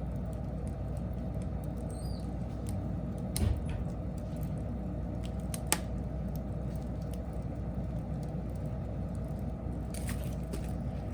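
Wood fire burning with a low steady rumble and scattered faint crackles, a dull thump about three and a half seconds in and a single sharp pop a couple of seconds later.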